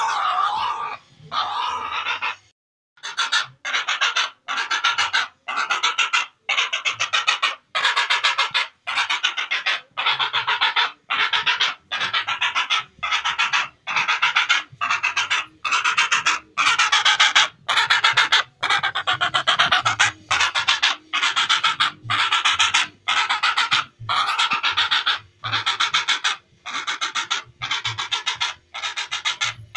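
Heron calling over and over, a harsh, rattling call of under a second repeated about once a second.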